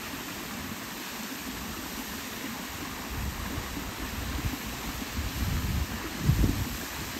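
Steady rush of flowing river water, with wind buffeting the microphone in low gusts, the strongest about six seconds in.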